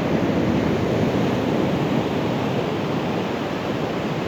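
Ocean surf on a beach, a steady rush of breaking waves, mixed with wind on the microphone.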